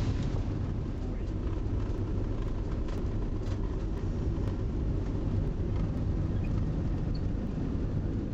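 Steady low rumble of a car on the road, engine and tyre noise at an even level.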